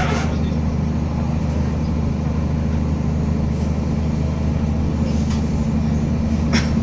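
Materfer diesel railcar running steadily with a low, even engine drone. A short sharp click comes near the end.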